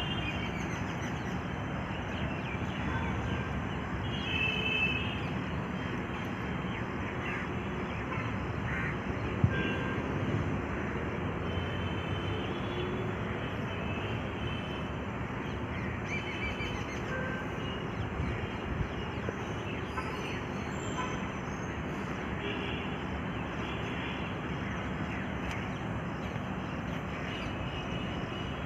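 Outdoor ambience: a steady rushing background noise with occasional short bird chirps, and one sharp knock about nine and a half seconds in.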